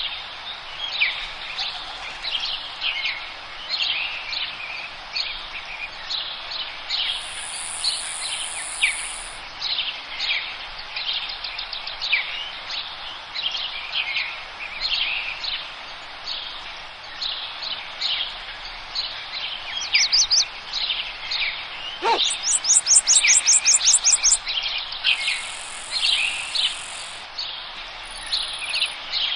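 Forest songbirds chirping, with many short falling chirps overlapping throughout. A loud, rapid high trill comes in about three-quarters of the way through.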